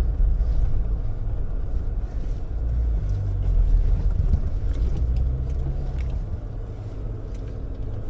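Cabin sound of a 2024 Jeep Wrangler's 2.0-litre four-cylinder engine running as the Jeep drives over a bumpy dirt track: a steady low rumble with a few light knocks.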